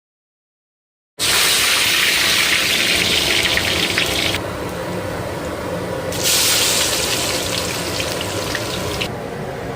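Water running hard from a kitchen tap. It starts suddenly about a second in, drops away for a couple of seconds in the middle, then runs hard again until near the end.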